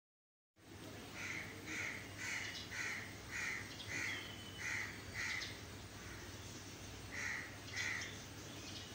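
A bird calling: a quick run of eight short, evenly spaced calls, then two more about two seconds later, over a faint steady hum.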